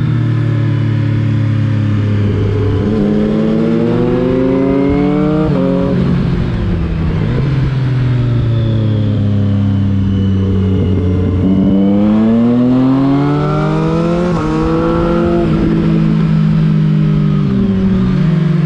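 Motorcycle engines, a Triumph Street Triple 675 R and a Kawasaki Z750: one engine holds a steady low note while the other rises in pitch twice, about three seconds in and again about twelve seconds in, each time falling back.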